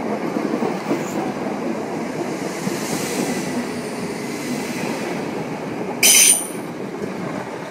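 A Class 455 electric multiple unit running through the station, with a steady rumble of wheels on the rails. About six seconds in there is one short, sharp, high wheel squeal.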